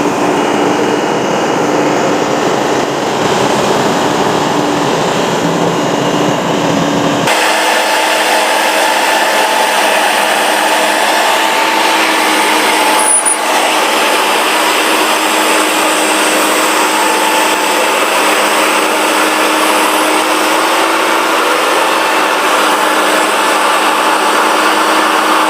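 Road construction machinery running steadily and loudly, a continuous engine-and-tool noise with a steady hum. About seven seconds in the sound changes abruptly and loses its deep bass.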